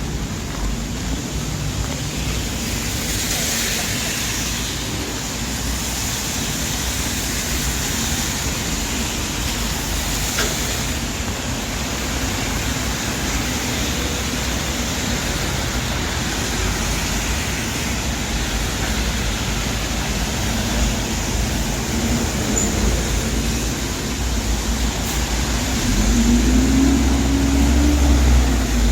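City street traffic on wet roads, a steady hiss of tyres and rain. Near the end a heavy vehicle's engine gets louder, its pitch rising slightly as it passes close.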